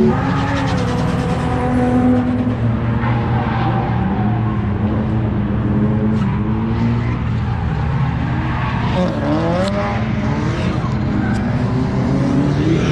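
Drift cars running on a race circuit: several engines revving up and down in overlapping sweeps of pitch, one climbing and dropping sharply about nine seconds in.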